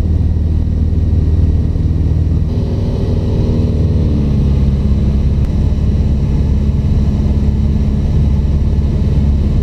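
Cessna 150's four-cylinder Continental O-200 engine and propeller droning steadily in flight, a loud constant hum.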